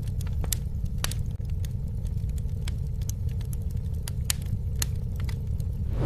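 Campfire burning, crackling with frequent sharp, irregular pops and snaps over a steady low rumble.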